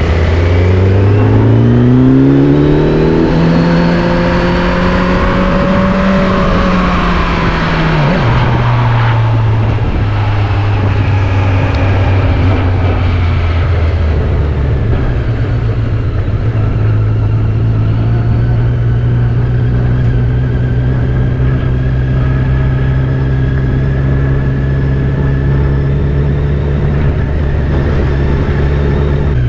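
Vehicle engine accelerating, its pitch climbing for about seven seconds, then dropping suddenly about eight seconds in and running at a steady speed after that.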